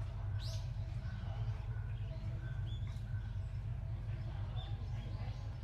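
Small birds chirping now and then: one sharp falling chirp about half a second in, then a few short high peeps. Under them runs a steady low hum.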